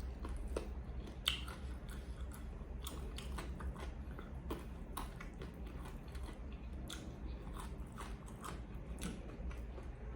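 A person chewing food close to the microphone, with irregular small crunching clicks as they bite and chew.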